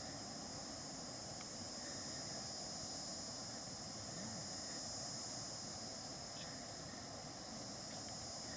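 Steady high-pitched chirring of crickets or similar insects, unbroken throughout, over a low, even outdoor background noise with a few faint ticks.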